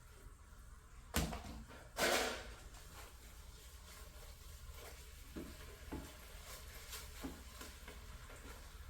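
Kitchen utensils knocking against a cooking pot: a sharp clack about a second in, a slightly longer clatter just after, then a few faint light taps.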